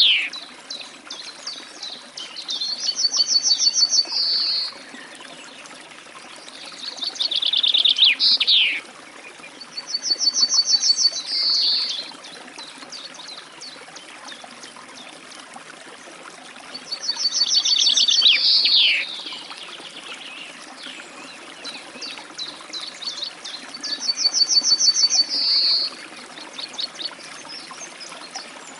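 Songbirds singing in the wild: loud two-second song phrases come every four to seven seconds, some a fast trill of evenly spaced high notes and others a trill that ends in a quick falling slur. Faint chirps and ticks fill the gaps between phrases.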